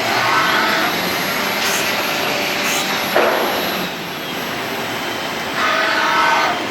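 Four-axis CNC wood lathe running, a steady loud rushing whir, with a sharp knock about three seconds in.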